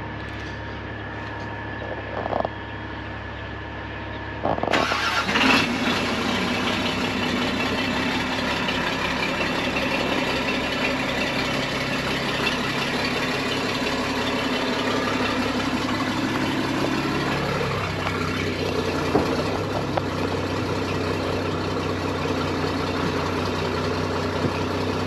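Cat 318B excavator's diesel engine cranking and catching about five seconds in, then running steadily. Its pitch settles lower about two-thirds of the way through.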